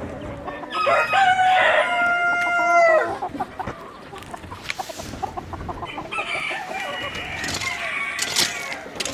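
A rooster crows once about a second in, a long call of about two seconds ending on a held note that drops away. Chickens then cluck and call in short broken bursts later on.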